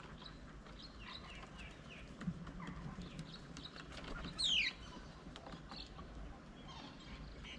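Several birds chirping and chattering in quick short notes, with one loud call that falls steeply in pitch about four and a half seconds in.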